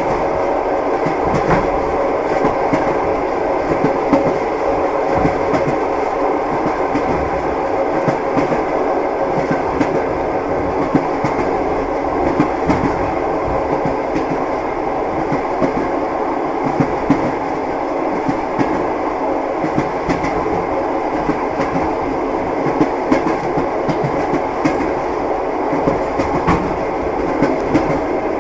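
Train wheels clattering over rail joints as a passenger carriage runs along steadily, a continuous rumble with frequent short knocks.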